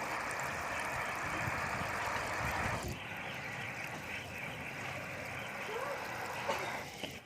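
Steady rush of running water. It drops a little in level about three seconds in and stops near the end.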